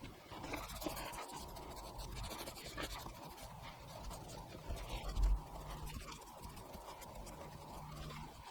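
Detailing brush scrubbing grime off engine-bay parts: a faint, steady scratching, with one louder low bump about five seconds in.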